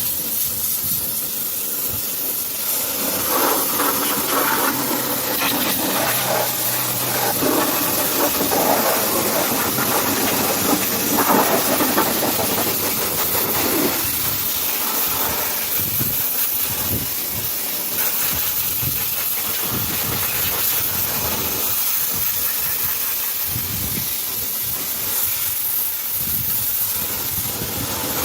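Pressure washer jet spraying water onto a truck in a steady loud hiss. The spray's sound shifts through roughly the first half, then settles.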